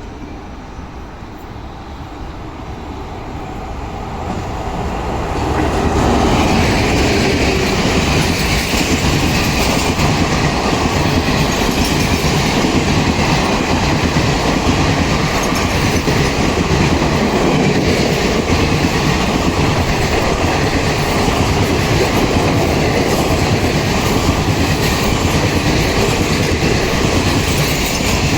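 An Indian Railways train hauled by an electric locomotive coming closer, growing louder over the first six seconds, then passing close by with a steady rumble and clatter of wheels on the rails.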